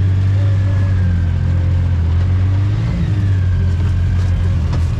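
Off-road vehicle engine running steadily while driving, a deep steady drone whose note shifts slightly about three seconds in.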